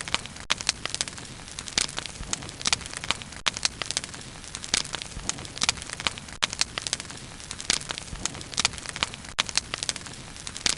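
Bonfire burning, the wood crackling and popping with frequent sharp snaps over a steady low hiss of flame.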